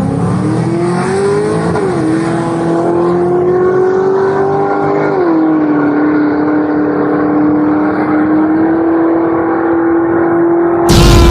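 A vehicle engine revs up and then runs at a steady pitch, dropping back sharply twice in the first half like gear changes. Just before the end comes a sudden loud crash-like noise.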